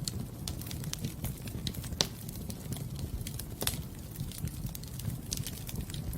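Fire burning in a fireplace, crackling with irregular sharp pops over a low steady rumble; two louder pops come about two seconds in and a little later.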